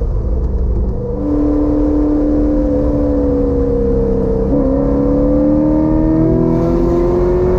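Corvette C6 Z06's 7.0-litre LS7 V8 running hard on track: its pitch sags slightly for a few seconds, breaks briefly about halfway through, then climbs steadily as the car accelerates.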